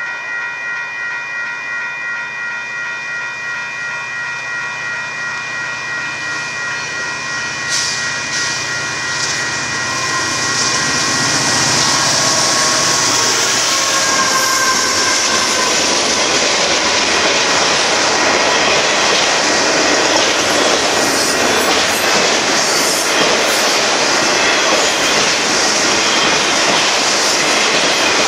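Grade-crossing warning bell ringing in a steady pulse about twice a second while the diesel locomotives of a Union Pacific freight train approach with a low hum. From about twelve seconds in, the freight cars roll through the crossing: a loud steady rush of steel wheels on rail with high hiss and wheel squeal that covers the bell.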